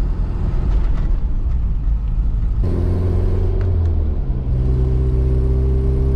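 1990 Toyota 4Runner's 22RE four-cylinder engine running as the truck drives, with a low rumble. About two and a half seconds in, the engine note changes to a steady hum, and it shifts again around four and a half seconds.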